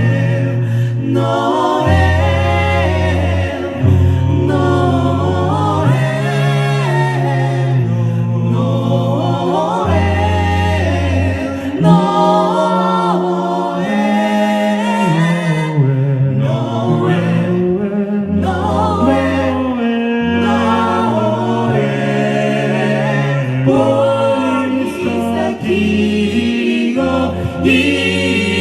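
A cappella vocal group singing in harmony, with no instruments; a bass voice holds low notes that change every second or two under the moving upper voices.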